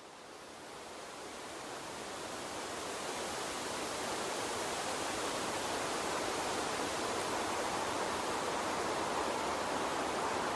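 Steady rushing of a flowing water stream, swelling up over the first few seconds and then holding even.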